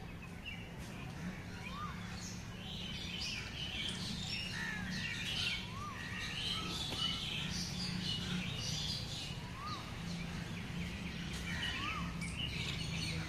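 Birds chirping and calling, many short high chirps, with a short rising-and-falling note repeating every few seconds, over a low steady hum.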